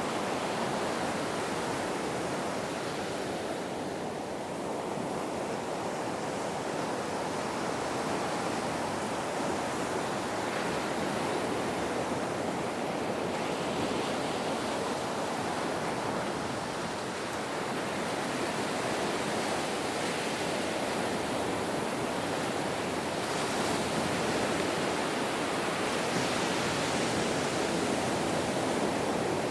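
Ocean waves breaking and washing in, a steady rush of surf that swells and eases gently every few seconds.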